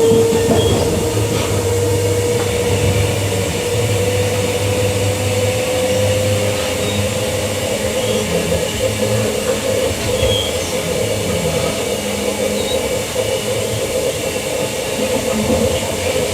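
Queensland Rail EMU electric train running between stations, heard from on board: a steady rumble with a single motor whine that rises slowly in pitch over the first several seconds, then holds steady.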